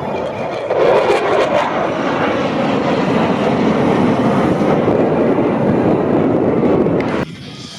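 Loud roar of an aircraft passing over, growing louder about a second in and cutting off abruptly near the end.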